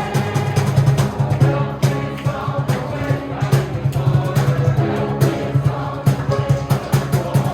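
A youth choir singing a song with instrumental accompaniment, over a steady beat.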